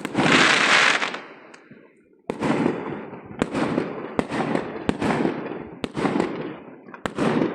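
Fireworks going off: a loud bang with a crackling hiss at the start, then after a short lull a rapid run of sharp bangs and crackles over a low rumble.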